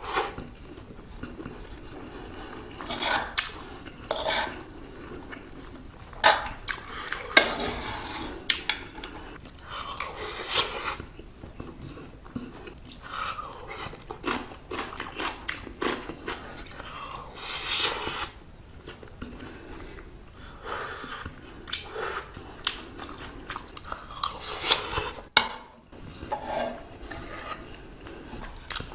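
Close-miked eating sounds of stir-fried octopus fried rice: chewing and biting, with a spoon clinking and scraping on the iron hot plate in irregular sharp clicks.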